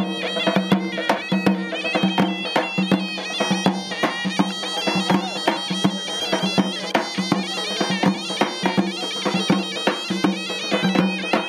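A zokra, the North African double-reed shawm, playing a fast, ornamented folk melody over a held low note, with hand-drum strokes beating a quick rhythm underneath.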